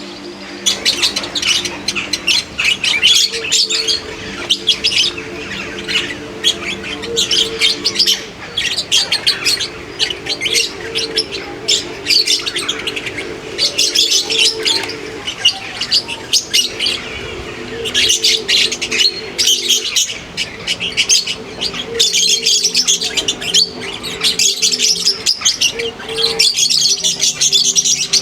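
Many birds chirping and twittering densely and continuously, over low held tones that change every few seconds.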